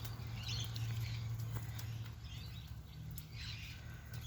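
Hens pecking at food scraps: light scattered taps of beaks on food and ground, with a few short soft chirps.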